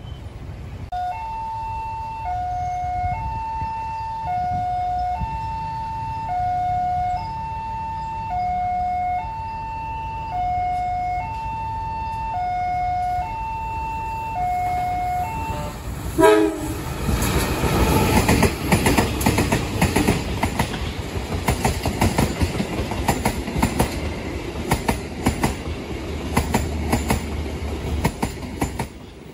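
Level crossing warning bell alternating between a higher and a lower tone about once a second. About sixteen seconds in, a short blast of the locomotive's horn is heard, then a diesel-hauled passenger train passes close by with loud, continuous wheel clatter over the rails.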